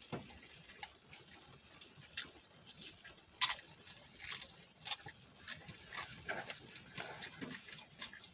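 Close-up mouth sounds of a person chewing and eating flautas, irregular wet smacks and small clicks, the loudest smack about three and a half seconds in.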